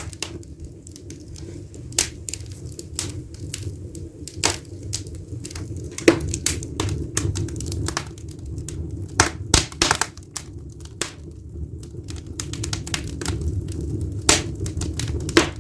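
Firewood burning in an open fireplace, crackling with irregular sharp pops, a few of them louder, over a low steady rumble.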